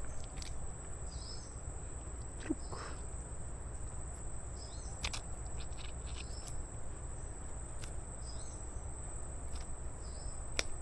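Insects buzzing steadily on one high note, with a short chirp repeating every second or two over a low steady rumble; a few sharp clicks stand out, one about halfway through and one near the end.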